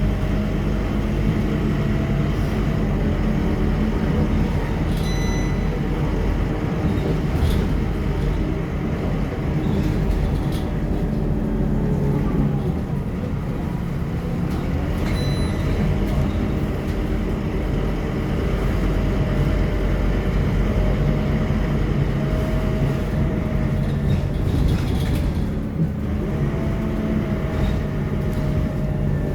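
Scania K230UB city bus's diesel engine running steadily, its pitch dropping and climbing again twice as the engine speed changes. Two brief high tones sound, about ten seconds apart.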